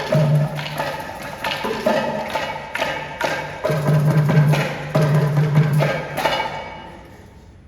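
Live percussion ensemble playing a fast, busy rhythm of struck drum and wooden strokes with a recurring low drum tone. Near the end the playing stops and the last strokes ring away.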